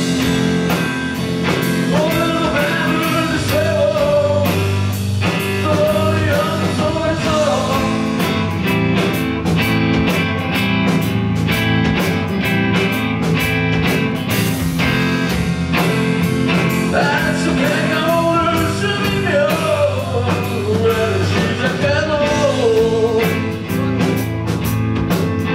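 Rock band playing live at full volume: electric guitars and bass over a steady drum beat, with a melody line that rises and falls twice, early on and again about two-thirds of the way through.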